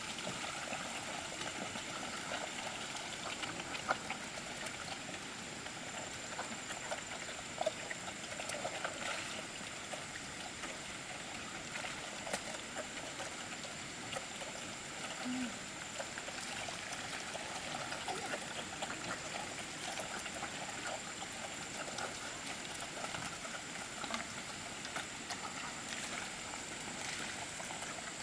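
A steady trickling, water-like hiss with many small scattered clicks, and a faint thin high whine held throughout.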